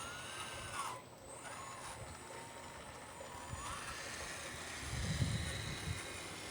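Whine of a radio-controlled model's electric motor, its pitch sliding slowly up and down as the load changes, over a low rumble that swells briefly about five seconds in.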